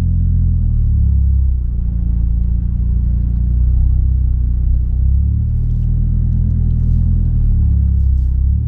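Nissan Silvia S15 Spec R's SR20DET turbocharged four-cylinder engine running while the car is driven, with a steady low rumble. The engine note drops about a second and a half in and climbs again around five seconds in.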